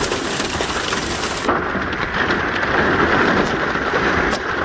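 Heavy rain and peanut-sized hail pelting down in a severe thunderstorm, with a strong wind gust of about 56 mph buffeting the microphone as a loud, steady rush. About a second and a half in, the hiss suddenly turns duller.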